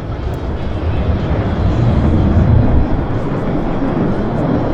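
Airplane engine noise growing louder over the first two seconds or so, then holding at a loud, steady level.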